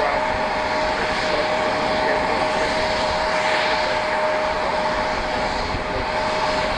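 Airliner engines running steadily at an airport, a constant noise with a steady tone held through it.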